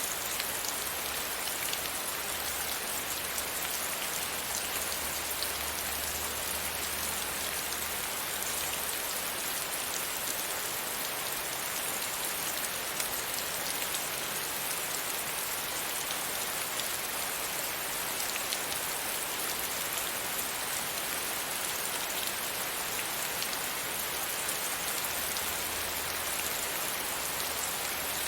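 Steady rain pattering against a window pane, a dense even hiss of many small drop ticks.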